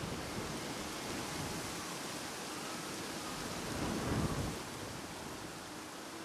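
Wind buffeting the microphone outdoors: a steady rushing noise with a stronger low rumbling gust about four seconds in.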